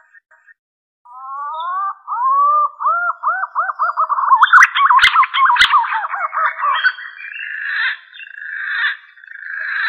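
Green pigeon (punai) song used as a lure call. It opens with rising whistles about a second in, then runs into a quickening series of looping whistled notes, and ends in a hoarser, buzzier stretch. Two sharp clicks fall near the middle.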